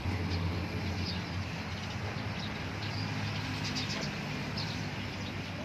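A steady low rumble that starts suddenly, with a few faint high bird chirps over it now and then.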